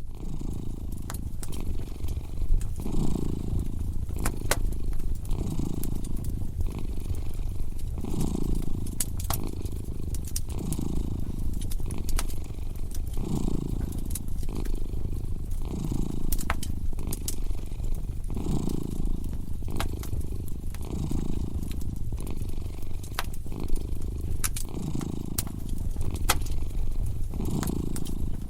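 A domestic cat purring steadily, its low rumble swelling and easing with each breath about every second and a half to two seconds. A fireplace fire crackles over it with scattered sharp pops.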